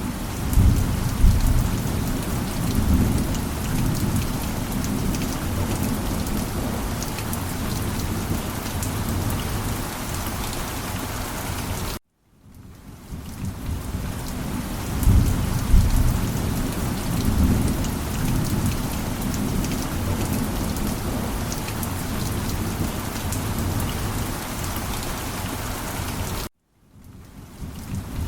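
Steady heavy rain with low rolls of thunder, one about a second in and another about halfway through. Twice the sound cuts out abruptly to silence for a moment and fades back in.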